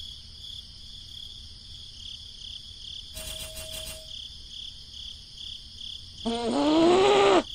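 Cricket chirping, a steady pulsing ambience, with a brief buzzy cartoon sound effect about three seconds in. Near the end a louder cartoon character's voice glides up and down.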